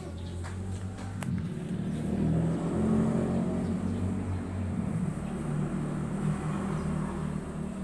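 Suzuki Katana's small engine running, swelling in a light rev about two to three seconds in and then settling back toward idle.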